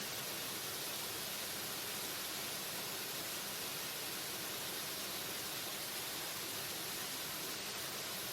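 Waterfall rushing in a steady, unchanging hiss with no separate splashes or other events.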